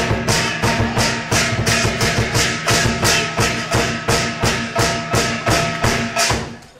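Rhythmic percussion music: sharp, evenly spaced strikes about three a second over steady ringing metallic tones, fading out near the end.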